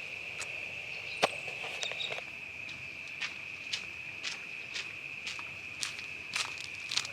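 Crickets chirring in one steady, high, unbroken tone, with light clicks about twice a second, the sharpest about a second in.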